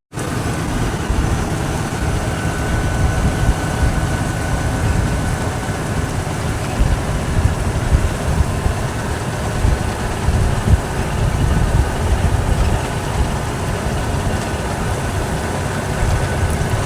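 A tractor's engine running steadily with a deep rumble, starting suddenly on a cut.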